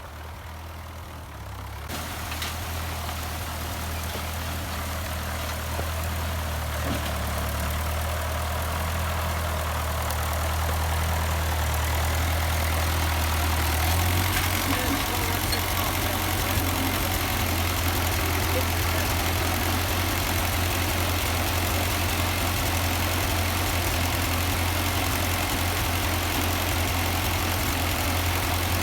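Ford 8N tractor's four-cylinder engine running steadily. About halfway through, its note turns to a coarser, pulsing beat.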